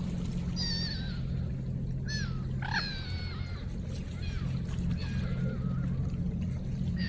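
Birds giving short wavering whistled calls, several in a row, over a steady low hum.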